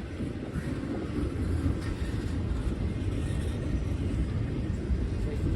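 Low, steady rumble of a moving freight train mixed with wind buffeting the microphone.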